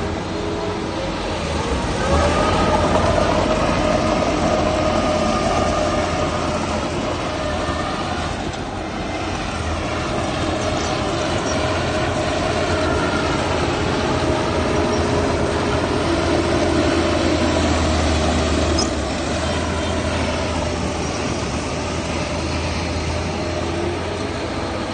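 Heavy diesel earthmoving machinery running under load: a steady engine rumble with a whine that rises about two seconds in and then holds.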